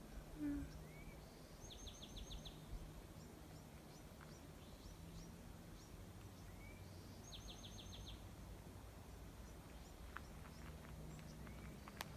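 A small songbird singing faintly, repeating the same short phrase twice: a high note followed by a quick run of five descending chirps, with a few scattered single chirps between, over a low steady hum of background noise.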